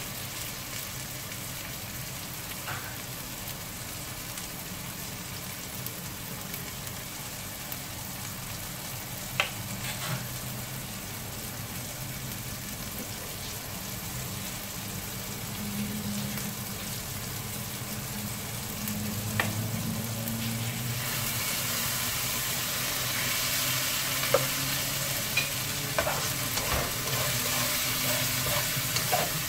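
Sliced onion and tomato sizzling in oil in a nonstick wok, with a few sharp taps of a spatula against the pan. The sizzle gets louder about two-thirds of the way through, as the vegetables are stirred.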